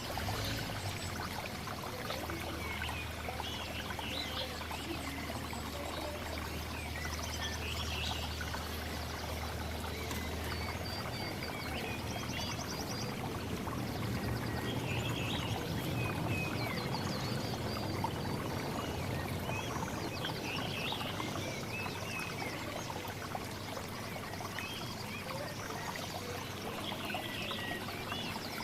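Assorted small songbirds chirping and calling in short scattered notes over a steady rushing noise like running water. A low hum is present for the first ten seconds or so, then stops.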